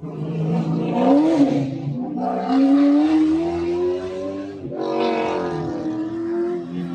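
A car's engine revving hard under acceleration, its pitch climbing and then dropping sharply at gear changes about two and five seconds in.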